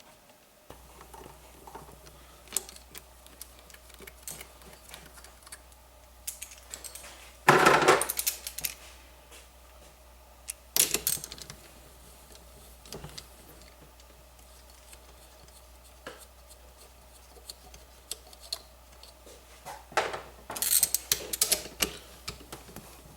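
Hand tools and metal engine parts clinking and clattering as a snowmobile's three-cylinder engine is taken apart on a workbench. Scattered light clicks, with louder bursts of clatter about a third of the way in, around the middle and near the end.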